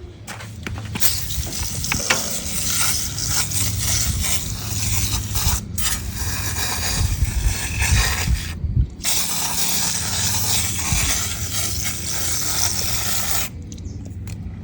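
Aerosol can of foaming coil cleaner spraying onto a motorcycle radiator: a steady hiss that breaks off twice briefly and stops near the end.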